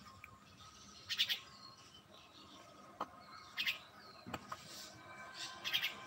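Birds chirping in short bursts of high chirps about every two seconds, with two sharp clicks about three and four seconds in.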